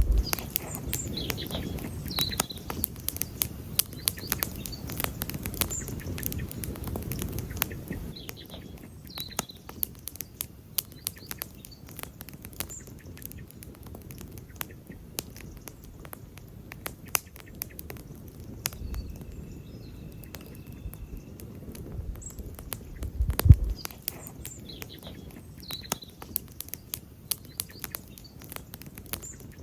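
Wood campfire crackling, with dense sharp snaps and pops and one louder pop a little after two thirds of the way through. A low rumble comes and goes, and faint bird chirps sound now and then in the background.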